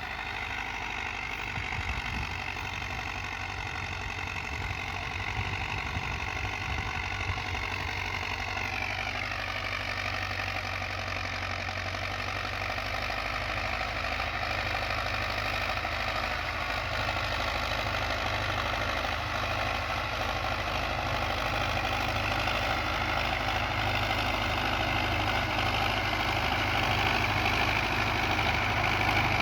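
Hindustan 80 tractor's diesel engine running under the load of a harrow in sand. About a third of the way in, its pitch drops as the engine slows. It then runs steadily and grows louder toward the end.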